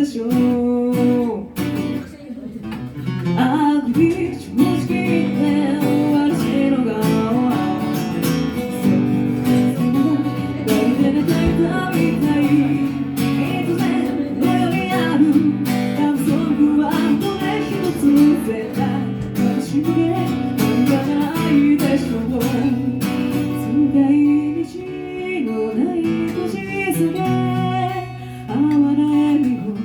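Acoustic guitar strummed to accompany a solo singing voice, a live song performance.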